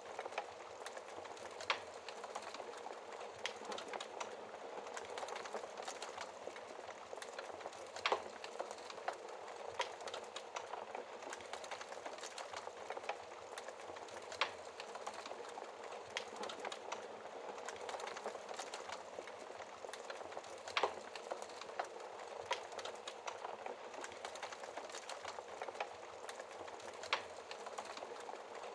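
Wood fire burning in a fireplace: a steady soft hiss with irregular crackles and sharp pops, a few louder snaps standing out.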